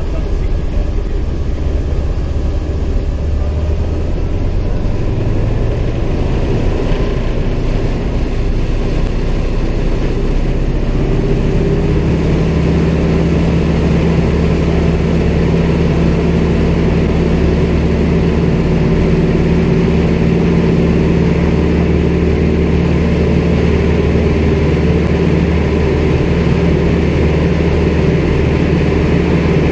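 CAC Winjeel's Pratt & Whitney R-985 radial engine running, heard from inside the aircraft. About twelve seconds in, its note shifts and then holds a steady, stronger drone.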